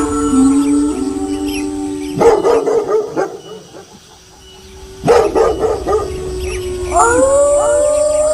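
Several wolves howling together in overlapping long, steady notes, cut across by two harsh bursts of barking about three seconds apart. New howls rise and hold near the end.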